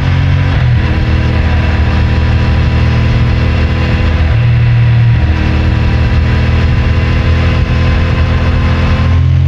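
CFMoto 450MT's parallel-twin engine running through its stock exhaust while riding. The note shifts in pitch several times as the throttle changes: a drop about half a second in, a rise around the middle, and another change near the end.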